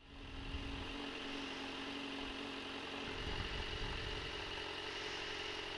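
Straight-piped Suzuki GSX-R 600 inline-four idling steadily with the bike at a standstill, fading in at the start.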